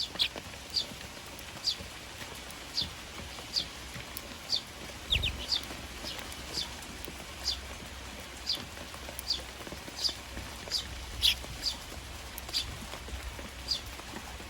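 Tree sparrows chirping, a short falling chirp about once a second, over the steady hiss of rain. A soft thump about five seconds in.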